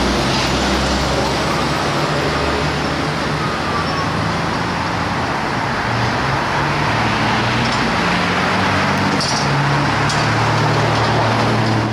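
Heavy fire apparatus engine running amid loud, steady road noise, its low note stepping up and down several times as it drives.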